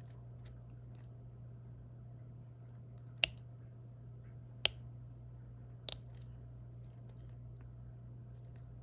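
Diamond painting stylus setting small resin drills onto the sticky canvas: faint ticks and three sharp clicks about a second and a half apart, over a steady low hum.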